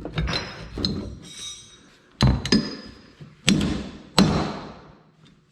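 Hammer striking a steel punch to drive a pin out of a manure spreader's chain: a handful of separate ringing metal-on-metal blows, the loudest in the second half. The chain is being broken apart so links can be removed to tighten it.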